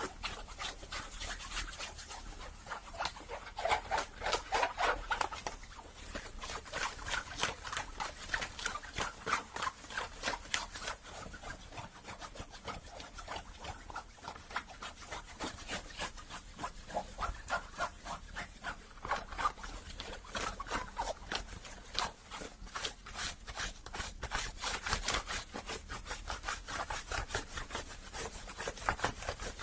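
Quick, continuous scratching and rubbing on the fabric and brim of a hat, many strokes a second, swelling and easing in waves.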